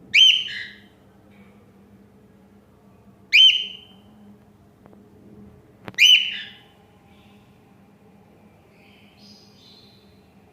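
Lutino male cockatiel giving three loud, short upward-hooked calls about three seconds apart, then a few fainter chirps near the end. A sharp click comes just before the third call.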